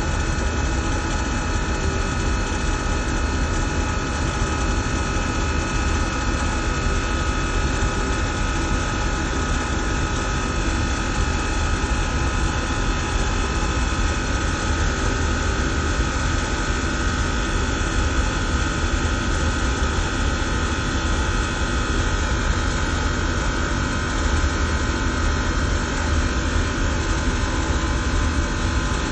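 Chiller-plant HVAC machinery running steadily: a constant low rumble and airy noise with a steady high whine held over it, unchanging throughout.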